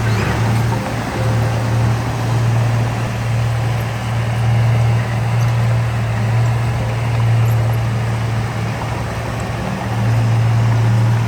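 Heavy diesel engine of earthmoving machinery running steadily: a continuous low drone with rumbling noise over it, growing a little louder about ten seconds in.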